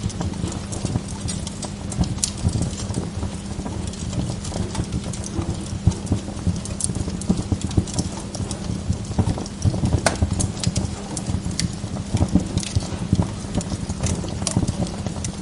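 Wood log fire crackling in a fireplace: a low steady rumble of flame with dense, irregular crackles and a few sharper pops.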